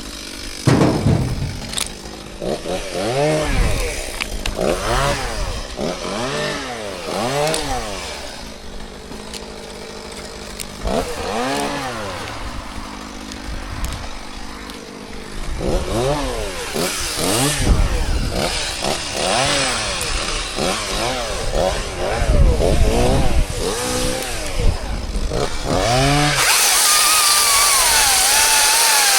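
Two-stroke chainsaw revved up and down over and over in short bursts, the engine speed rising and falling, with a few brief lulls. Near the end a steadier, hissing machine sound takes over.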